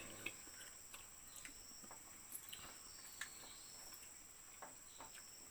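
Steady high-pitched insect trilling, like crickets, with faint scattered clicks.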